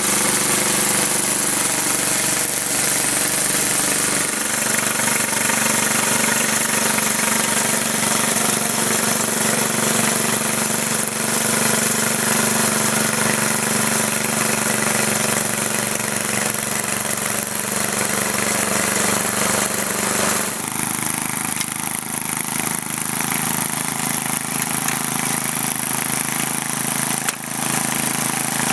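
Sears Craftsman Drift Breaker two-stage snowblower's engine running steadily, its note shifting about twenty seconds in.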